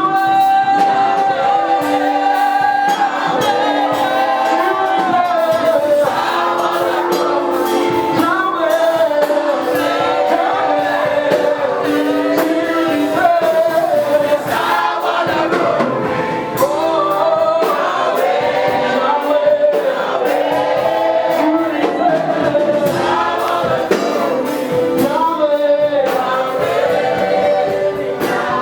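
Gospel worship singing: a choir of voices singing together, with sung lines that glide and hold throughout.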